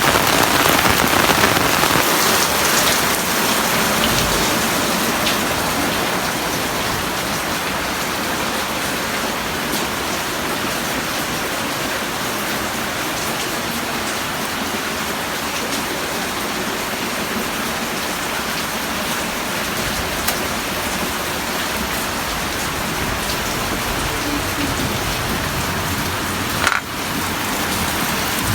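Heavy rain falling steadily, a continuous even hiss of drops on surfaces. There is one sharp click near the end.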